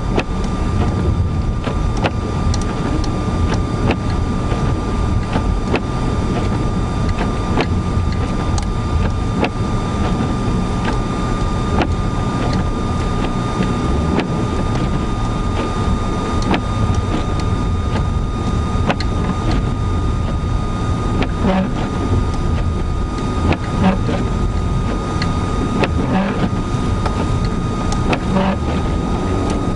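Car pushing through deep snow on a gravel road, heard from inside the cabin: a steady low rumble of engine, tyres and wind, with scattered sharp ticks and knocks and a thin steady whine.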